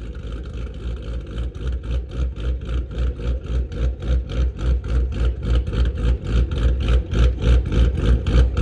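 Camaro engine idling with a choppy, even lope, about four pulses a second, getting steadily louder.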